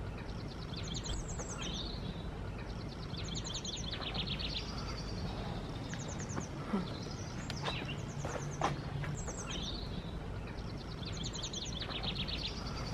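Songbirds singing: short high phrases, each a quick swooping note followed by a rapid trill, repeating every second or two over a steady low background noise.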